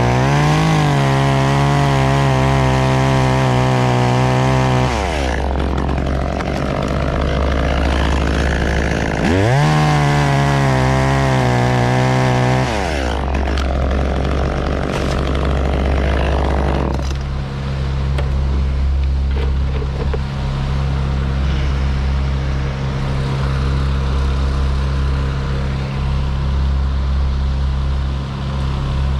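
Chainsaw held at full throttle in two stretches of about four to five seconds, each ending as the revs drop away. A heavy engine runs steadily underneath throughout and is heard alone for the last third.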